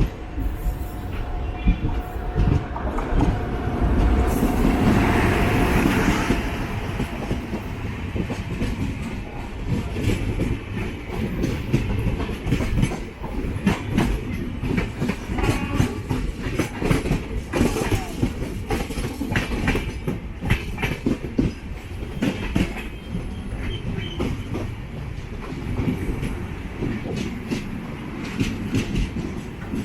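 Passenger train coaches running on the track: the wheels clatter over rail joints in a steady clickety-clack over a low rumble. The sound is louder for about two seconds, around four seconds in.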